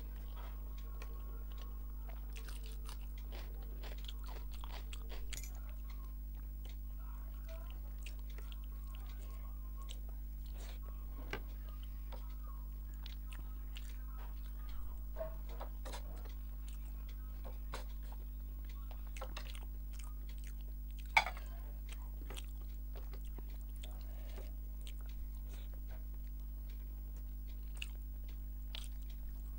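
Close-miked eating by hand: chewing and mouth sounds with many small scattered clicks as rice and fish head curry are eaten, over a steady low hum. One sharper click about two-thirds of the way through.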